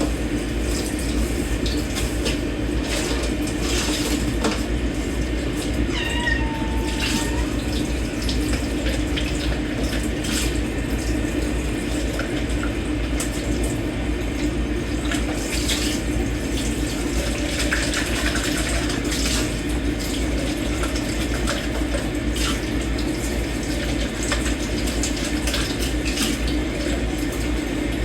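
Kitchen tap running steadily into a sink while dishes and cutlery are washed by hand, with scattered clinks of dishware. A cat meows once about six seconds in.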